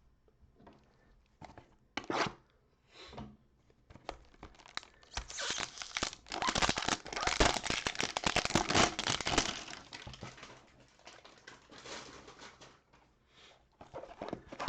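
Packaging of a trading-card hanger box being torn open and crinkled: a few scattered rustles and knocks, then a long, dense stretch of tearing and crinkling in the middle, tapering into lighter rustling.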